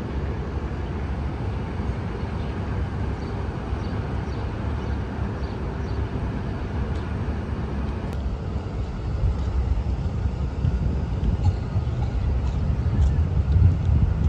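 Outdoor city background: a steady low rumble of traffic noise with a few faint ticks, growing a little louder in the last few seconds.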